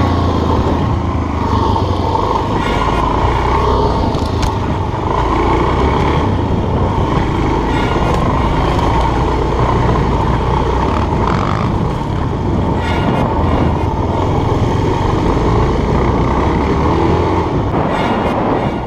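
Enduro motorcycle engine running steadily while riding a dirt trail, with a few sharp knocks from the bike over the rough ground.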